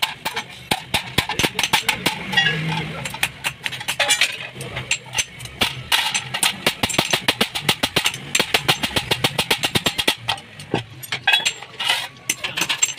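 Rapid hammer strikes on sheet metal, several blows a second with short pauses, as the metal of a stove is worked.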